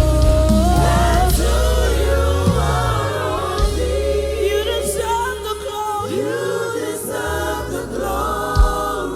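Gospel worship singing: voices holding and sliding between long sung notes over sustained keyboard and bass.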